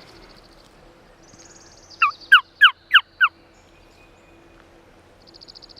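Run of five turkey yelps, loud and close: sharp notes about four a second, each falling in pitch. A faint, high songbird trill sounds before them and again near the end.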